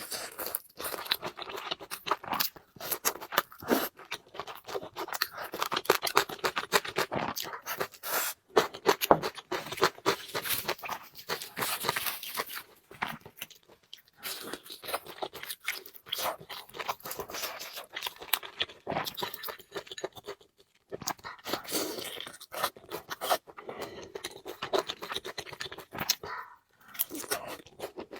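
Close-miked eating: chewing and crunching of food with utensils scraping and clicking, broken by a few short pauses.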